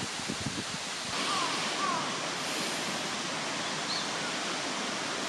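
A steady outdoor rushing noise that swells about a second in, with a few short downward-sliding bird calls over it and faint crackles in the first second.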